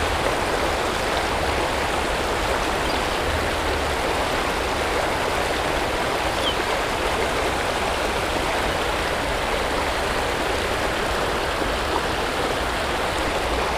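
Creek water rushing steadily over a small waterfall spillway and rocks.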